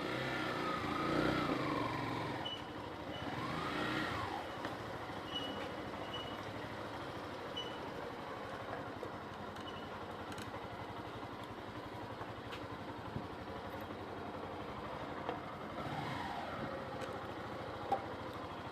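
Street traffic: motor vehicles going by, with an engine's pitch rising and falling as one passes near the start, again about four seconds in and again near the end, over a steady background hum.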